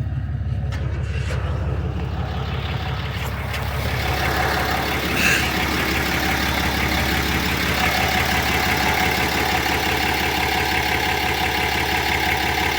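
Cummins 6.7 inline-six turbo-diesel idling steadily. It grows louder and fuller about four seconds in, with a brief sharper sound about a second later.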